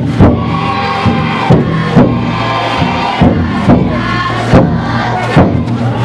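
Taiko drum inside a futon daiko festival float being struck about twice a second, with a crowd of bearers chanting and shouting over it.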